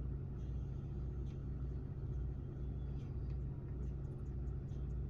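Steady low rumble of a vehicle engine running, with a few faint light ticks over it.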